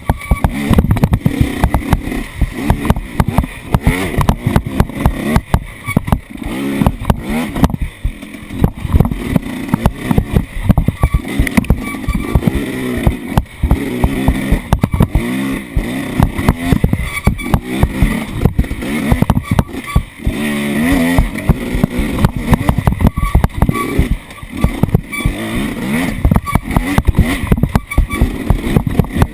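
Off-road vehicle engine running and revving up and down as it drives over rough ground, with constant knocks and jolts from the bumpy ride.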